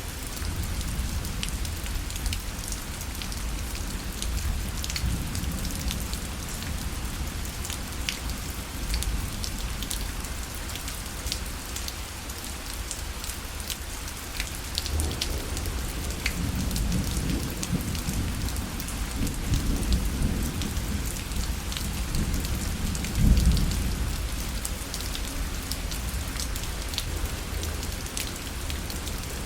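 Rain falling steadily on a parasol, with many separate drops striking it. A low rumble swells in the second half and is loudest about three-quarters of the way through.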